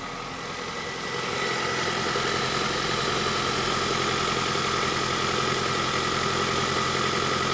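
Kia Niro 1.6 hybrid's G4LE four-cylinder petrol engine idling steadily; it grows louder over the first second or two, then holds even. It runs evenly, without faults.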